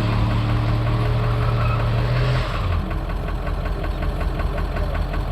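Rental truck's engine running at raised revs, then dropping back to a steady idle about two and a half seconds in.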